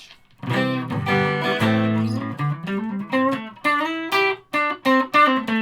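Stratocaster-style electric guitar on its neck pickup alone: a strummed chord about half a second in, then a short melodic phrase of single notes, some sliding up in pitch.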